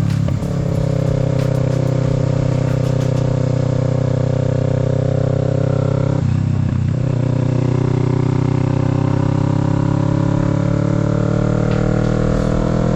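Kawasaki Z650's parallel-twin engine under way, pulling steadily with its pitch climbing slowly. Two brief breaks in the sound, just after the start and about six seconds in, each followed by a slightly lower pitch: upshifts through the gears.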